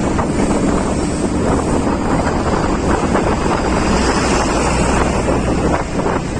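Steady wind noise buffeting the microphone on a moving vehicle, with road and engine noise underneath.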